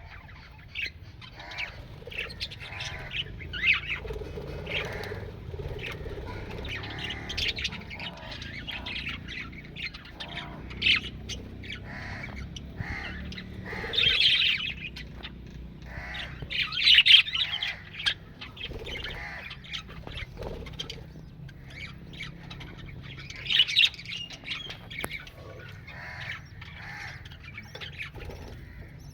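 Australian parrots squawking and chattering, a near-continuous run of short harsh calls from several birds, with a few louder squawks standing out now and then.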